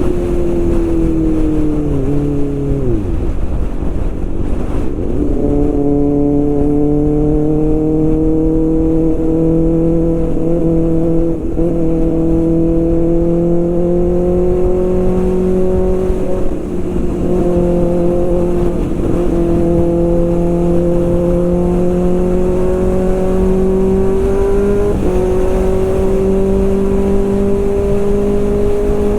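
Kawasaki ZX-6R's inline-four engine running under way. Its pitch drops sharply about two to three seconds in as the revs fall, then holds nearly steady and creeps slowly upward, with a sudden step up in pitch near the end.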